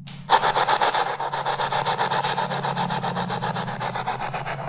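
Spirit box sweeping the AM radio band. It starts abruptly and gives out rapid, even pulses of radio static, about nine a second, over a steady low hum.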